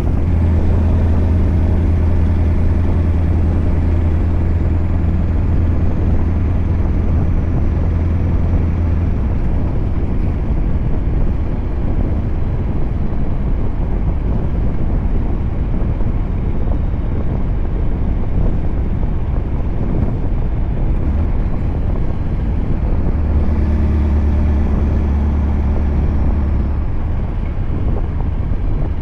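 Scania R580's 16-litre V8 diesel with an 8-inch straight-piped exhaust running steadily while the truck drives. A deep steady drone is strong for the first nine seconds, fades into road and engine noise, and returns strongly about 23 seconds in. A faint high whine slides down in pitch both times.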